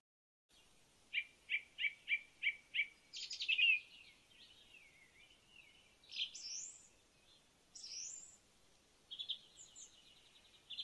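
Birds singing and calling: a quick run of about seven short chirps, then trills and rising whistled calls.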